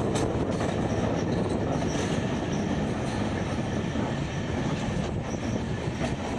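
Mandovi Express passenger train running along the track: a steady rumble of the coaches rolling on the rails, with a couple of faint clicks.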